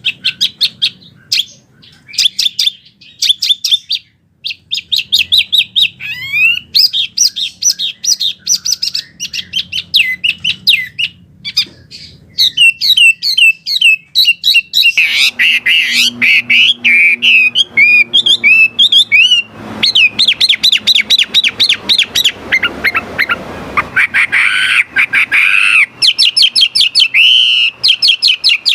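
Wambi bird singing: loud, fast strings of sharp chirping and squawking notes, with only brief pauses between phrases.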